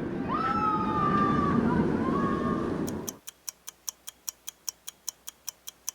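Roller coaster running: a loud rushing rumble with high wavering, gliding cries over it, stopping about three seconds in. Then a countdown timer ticking evenly, about five ticks a second.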